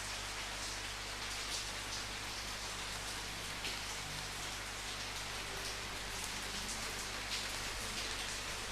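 Steady rainfall, an even hiss with a few louder drops striking now and then.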